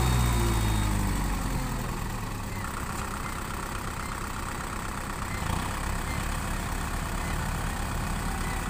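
Tractor engine winding down from higher revs over the first couple of seconds, then settling into a steady idle.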